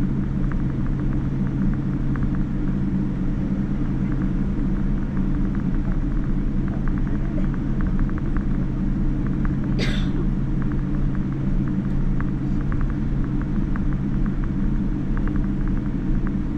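Steady low rumble of a Boeing 787-9's engines and airflow heard inside the passenger cabin, with faint ticking rattles. A brief hiss comes about ten seconds in.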